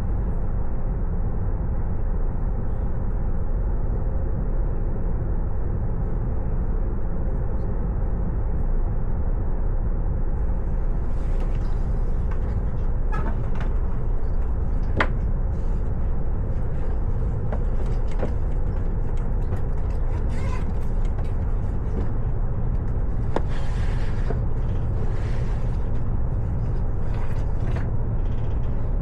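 Train running, a steady low rumble. Scattered clicks and knocks come in from about ten seconds in.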